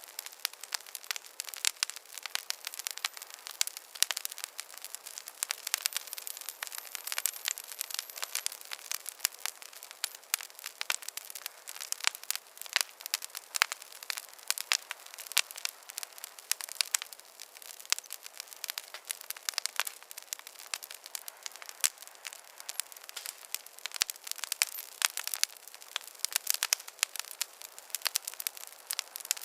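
Wood fire crackling in a fireplace: dense, irregular snaps and pops over a steady hiss.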